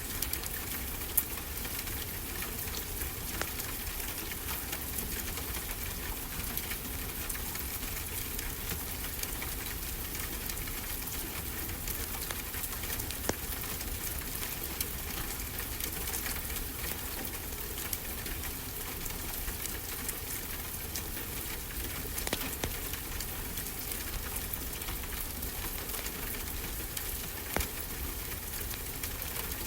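Fireplace crackling, with scattered sharp pops over a steady hiss, layered with the low, even rumble of ocean waves. The loudest pop comes about a second in.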